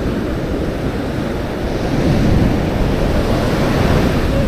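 Atlantic surf breaking and rushing on the beach, swelling louder about two seconds in, with wind buffeting the microphone.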